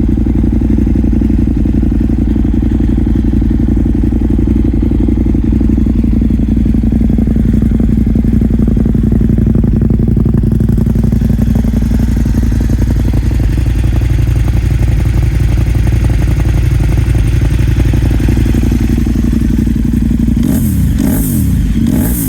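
KTM Supermoto's LC8 V-twin engine idling steadily through aftermarket Max Torque exhaust cans, with quick throttle blips near the end.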